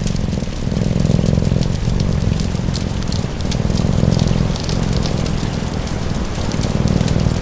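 Domestic cat purring, a low rumble swelling and fading about every second and a half, layered over a crackling wood fire and steady rain.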